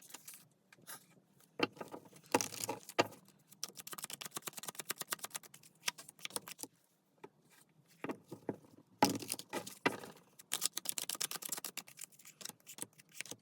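A deck of tarot cards being shuffled by hand: rapid runs of soft card clicks and flicks, broken by a few louder taps of the deck. A second long run starts about nine seconds in.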